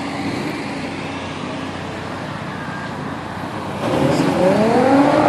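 Steady traffic noise of cars rolling by. About four seconds in, a louder car engine comes through, revving so its pitch climbs, as it pulls past.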